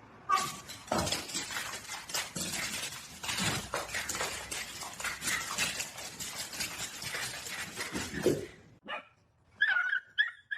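A dog making noise over about eight seconds of dense, scuffling noise with many clicks and knocks, then a few short high-pitched sounds near the end.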